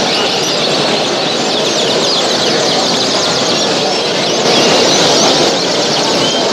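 Dense chorus of many caged birds chirping and calling at once, over a steady lower din. It swells a little from about four and a half seconds in.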